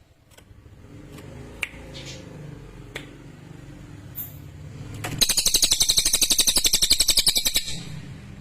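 A cililin songbird's fast, even trill of rapid high notes. It starts about five seconds in and lasts about two and a half seconds. Before it there is a low hum with a few short high chirps.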